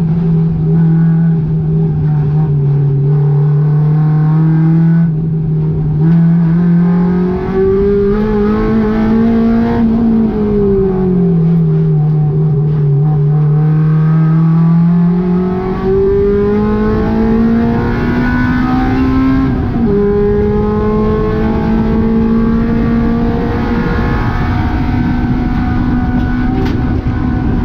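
Honda K20 four-cylinder engine in a VW GTI, run hard at high revs on track. Its pitch climbs and falls with throttle and gear changes, with a short drop about twenty seconds in.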